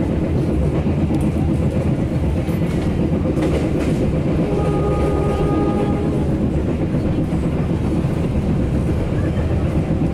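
Passenger train running, heard from inside the coach: a steady, loud rumble of wheels on rail. About midway a faint two-note tone sounds for about a second and a half.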